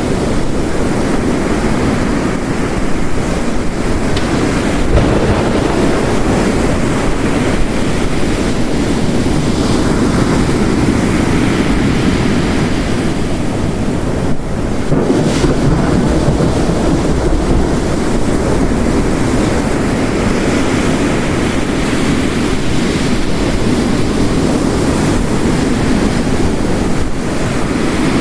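Layered storm ambience: steady heavy rain with ocean waves crashing and surging in slow swells.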